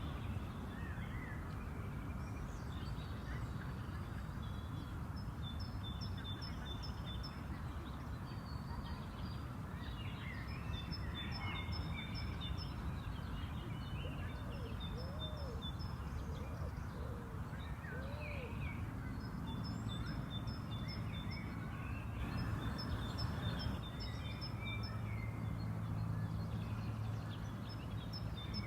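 Spring park ambience: several songbirds singing and calling over steady background noise, one of them repeating a short high ticking phrase every few seconds. A low steady hum joins and grows louder during the last third.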